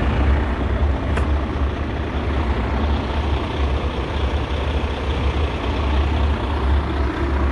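Heavy truck engine running steadily with a low hum, with one brief sharp click about a second in.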